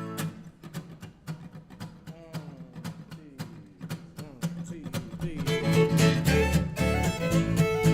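Instrumental opening of an acoustic string-band song: plucked acoustic guitar notes with some sliding pitches, becoming louder and fuller about five seconds in as more instruments join.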